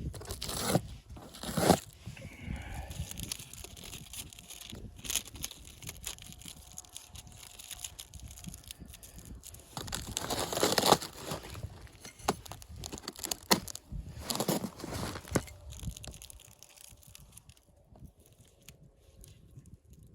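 Irregular rustling and crunching noises in separate bursts, loudest about two seconds in and again around the middle, with quieter stretches between.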